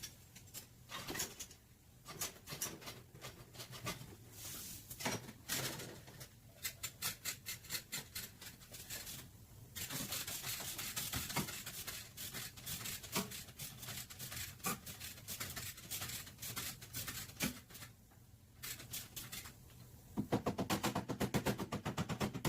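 Irregular sharp taps and knocks of auto body panel work, with a steady hiss through the middle stretch.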